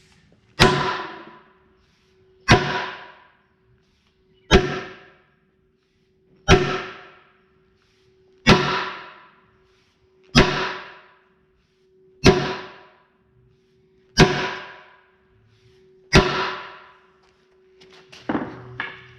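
Heavy hammer blows on the bent steel ear of a skid-steer bucket's quick-change bracket, beating it straight: nine evenly paced strikes about two seconds apart, each ringing briefly as it dies away.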